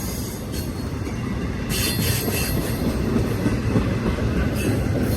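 BNSF intermodal freight train's cars rolling past: a steady rumble of steel wheels on rail, with brief high-pitched wheel squeal about two seconds in and again near the end.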